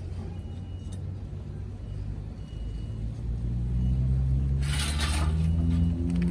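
An engine runs with a low rumble, and its pitch and loudness rise over the second half, with a short hiss about two-thirds of the way in.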